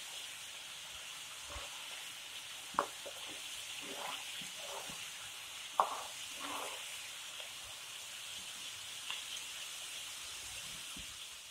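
Chana dal deep-frying in hot oil in a kadhai: a steady sizzle, with a few short clicks of a metal spoon stirring against the pan, the sharpest about three and six seconds in.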